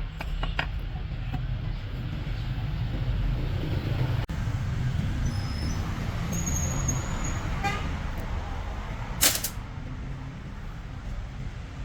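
A heavy engine running with a steady low rumble. About nine seconds in there is a short, loud burst of hiss.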